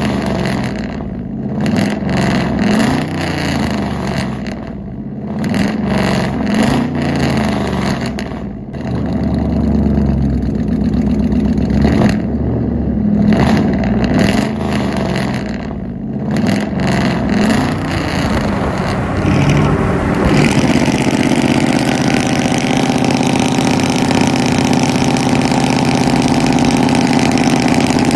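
Pickup truck engine through a loud aftermarket exhaust, revved in repeated throttle blips that rise and fall. About twenty seconds in it settles into a steady run.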